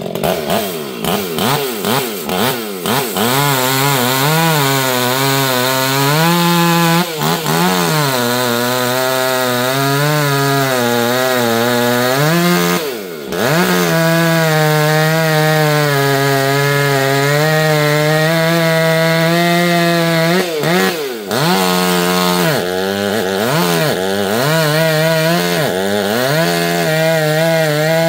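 Two-stroke chainsaw blipped up and down a few times, then held at full throttle cutting through black walnut wood, its pitch sagging and recovering under the load. The throttle is let off briefly twice, about halfway and about three-quarters of the way through.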